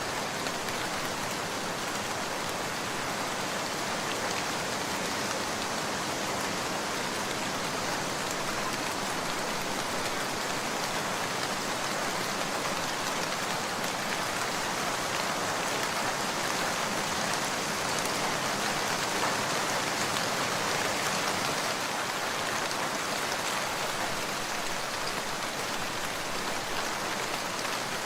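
Steady rain falling, a dense even hiss of drops that swells slightly in the middle.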